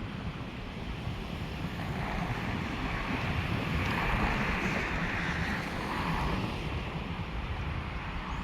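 Passenger train running: a steady low rumble with a rushing, wind-like noise that swells for a few seconds in the middle.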